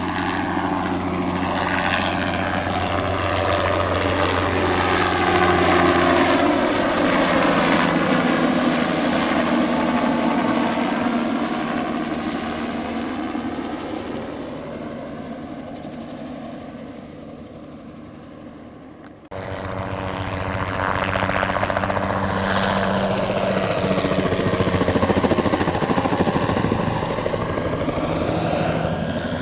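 A single-engine turbine crop-spraying helicopter passing low, its rotor beat and turbine whine swelling, sweeping in pitch and fading away. About two-thirds of the way through it cuts suddenly to another loud low pass.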